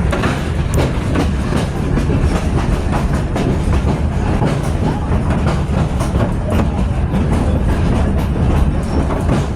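Railroad passenger car rolling along the track: a steady low rumble with frequent clicks and clacks of the wheels over the rails.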